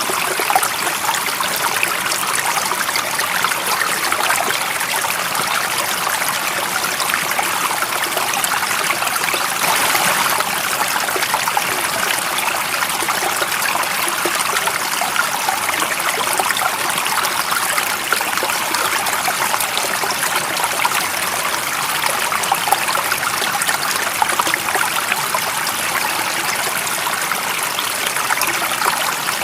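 Stream water running steadily, a continuous even splashing with no pauses.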